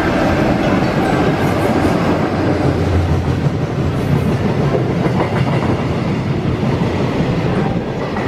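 A freight train passing at speed: a steady, loud rumble of wheels on the rails, with the clickety-clack of the wagons running over rail joints.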